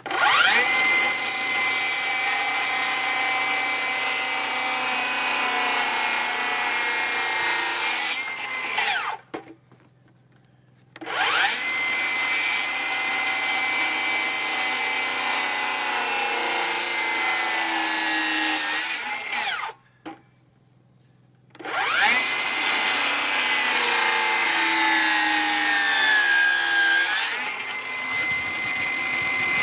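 Electric power saw run three times, each run spinning up, holding a steady pitch for about eight seconds while making kerf cuts in wood for a notch, then winding down; the third run sags in pitch under load near the end.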